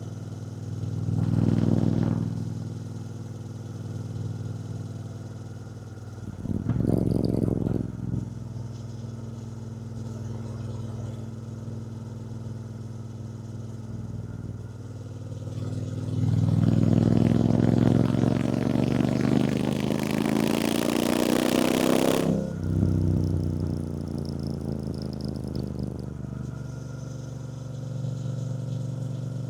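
2024 Triumph Bonneville T120's 1200 cc parallel-twin engine running under way. It swells briefly twice early on, then accelerates hard for about six seconds with the pitch climbing and wind rush building, before easing back to a steady cruise.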